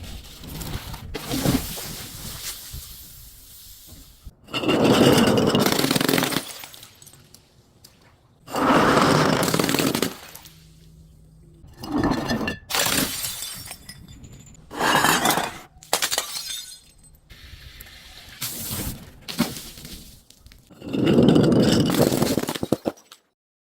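Glass being crushed and breaking in repeated crunching bursts of one to two seconds, with quieter crackling between them.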